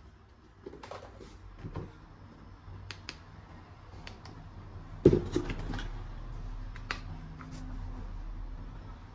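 Plastic toy gun parts being handled: scattered light clicks and snaps, with one louder knock about five seconds in followed by a quick run of clicks.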